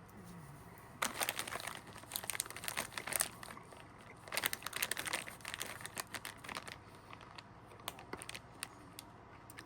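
Gummy snack pouch crinkling as it is handled, in irregular bursts for several seconds, then a few isolated crackles near the end.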